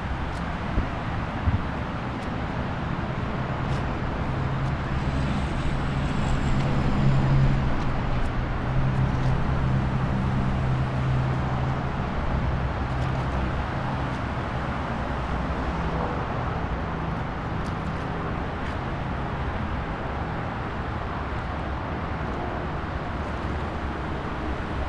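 Steady rushing roar of the Sahastrakund waterfall on the Painganga river, a strong flow of water crashing down. A low hum swells under it in the middle and fades again.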